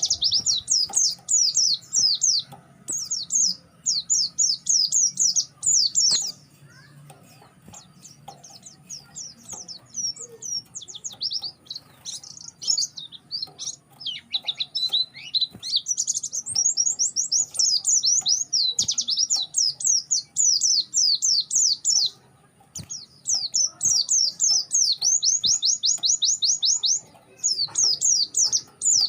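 White-eye (pleci) singing a fast twittering song of rapid, high, sweeping chirps in long runs, sparser about six to ten seconds in; a lone bird calling to a rival away from its flock.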